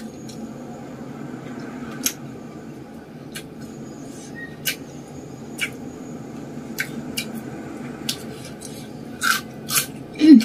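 Close-miked eating: chewing, with sharp crisp clicks now and then from raw vegetables such as cucumber and leafy greens being bitten and chewed. A few louder clicks come near the end, then a short falling hum.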